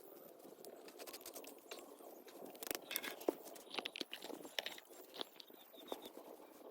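Irregular clicks, knocks and scrapes, most of them in the middle, with no engine running.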